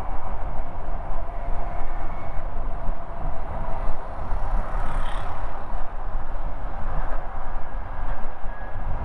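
Steady wind and road rush from an Ather 450X electric scooter riding along, with heavy wind rumble on the microphone. A brief high-pitched sound comes about five seconds in.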